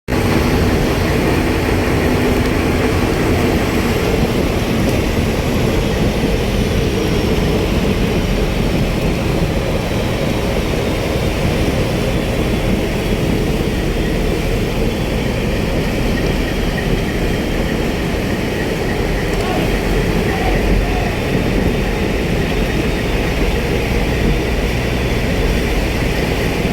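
Steady heavy rumble of a vessel's diesel engines under way, with a constant rushing noise over it.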